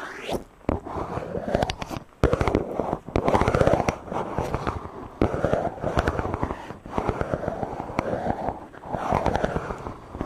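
Microphone being rubbed directly: close, loud scratchy friction and crackling with many small clicks, swelling and easing in strokes every second or so.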